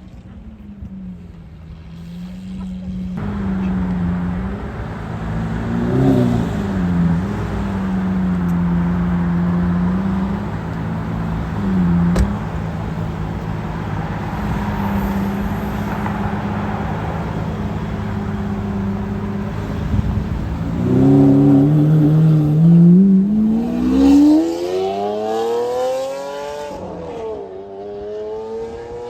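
Lamborghini Aventador V12 with a Capristo exhaust running at a steady low idle, with a couple of brief throttle blips. About 21 seconds in it accelerates hard, its pitch climbing steeply, then dropping at a gear change near the end before climbing again.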